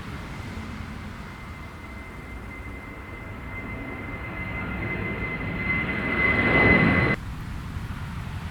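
Jet airliner's engines growing steadily louder as it passes close, a high whine over the rumble, until the sound cuts off suddenly about seven seconds in, leaving wind noise on the microphone.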